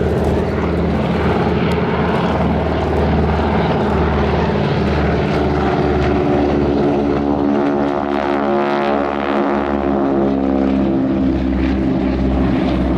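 Boeing Stearman biplanes' radial engines and propellers droning in a low pass, the pitch bending down as they go by about two-thirds of the way through.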